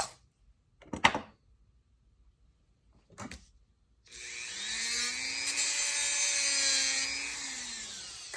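A few light clicks of handling, then about four seconds in a small rotary power tool spins up and runs steadily with a whine and a high hiss, cutting a toy truck's axle tube to length. It winds down near the end.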